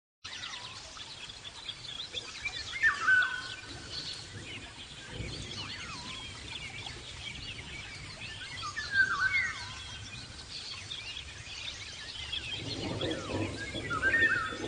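Many zebra finches chattering, a dense stream of short overlapping chirps and calls, with louder calls about three seconds in, about nine seconds in, and near the end.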